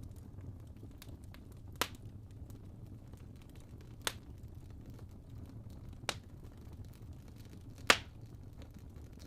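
Wood fire burning in a fireplace: a low steady rumble of flames with four sharp crackles of the logs, about two seconds apart, the last the loudest.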